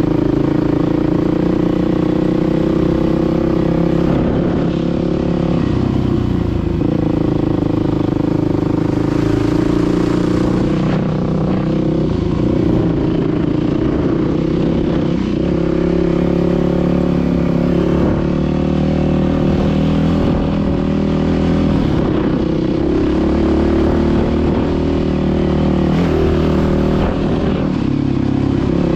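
Dirt bike engine running loudly while being ridden, its note rising and falling with the throttle.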